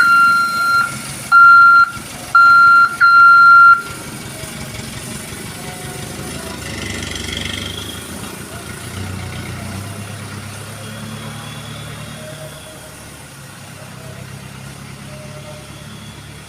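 A truck's horn sounds four short blasts in quick succession, a single high steady note. Then the truck's engine runs steadily and rises a little as it pulls away.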